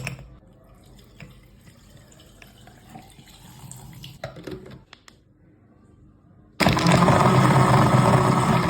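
Faint handling sounds with a few light knocks, then about six and a half seconds in a countertop blender's motor starts abruptly and runs steadily and loud, blending cucumber and ice cubes into juice.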